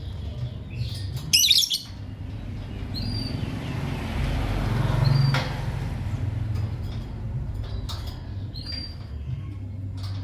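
Lovebirds chirping: a loud burst of rapid, warbling chirps about a second and a half in, then short high chirps scattered through the rest. A rushing noise swells in the middle and cuts off suddenly about five seconds in, over a steady low hum.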